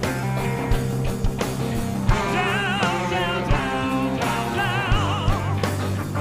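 Live blues-rock band playing, with electric guitars, bass and drums; a high lead line wavers in wide vibrato over a steady bass and drum beat.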